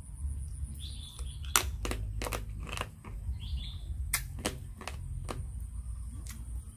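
Close-up eating sounds of a mouthful of crab salad: crunching and wet smacking clicks, several in quick succession about a second and a half in and again around four to five seconds in. Birds chirp faintly in the background.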